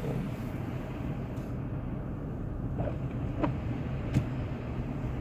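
Steady low rumble of a car's engine and tyres heard from inside the cabin while driving, with a couple of faint ticks about three and four seconds in.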